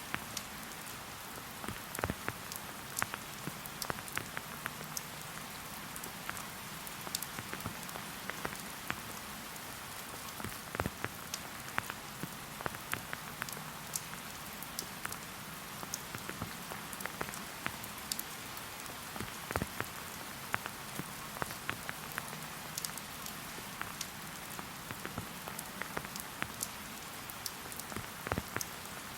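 Steady rain, an even hiss with many separate sharp drop taps scattered throughout.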